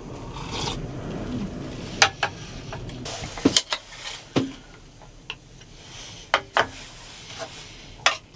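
Objects being handled in a small enclosed space: a series of sharp clicks and knocks, about eight in all, some in quick pairs, over a low rumble that fades after the first few seconds.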